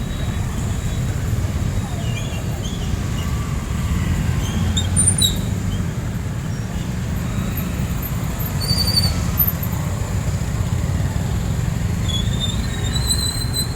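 City street traffic at night: a steady low rumble of passing vehicles, with a few brief high-pitched squeaks scattered through it.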